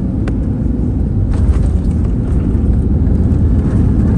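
Steady low rumble inside an Airbus A320neo cabin as it taxis after landing: engines and rolling wheels, with a sharp click just after the start and light rattles through the cabin.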